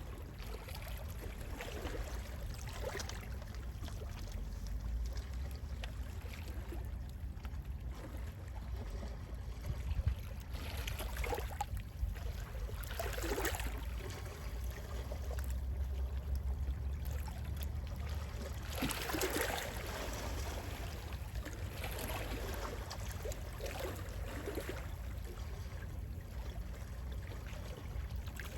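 Gentle sea waves washing in and drawing back, a few soft swells rising and fading, over a low steady rumble of sea wind.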